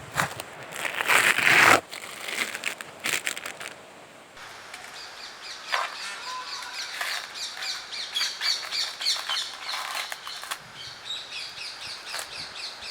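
Coconut husk fibre being ripped apart by hand: a loud rasping tear in the first two seconds with crackles after it. From about four seconds in, birds chirp repeatedly.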